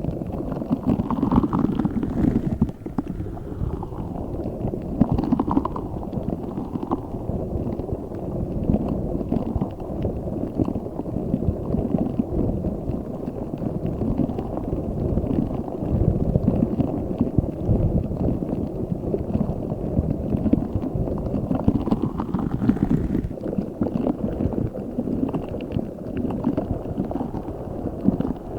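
Giant spiky Orbeez-filled squishy ball squeezed and kneaded by hand close to the microphone: continuous, dense, wet squishing.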